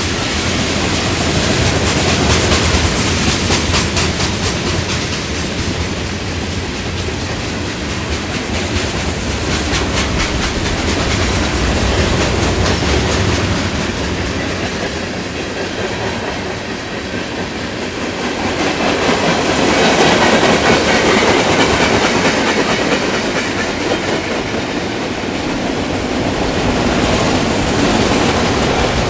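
Train rolling past, its wheels clicking rhythmically over the rail joints amid steady rumble and rail noise. The clicking is plainest in the first dozen seconds, and the noise swells louder about two-thirds of the way through.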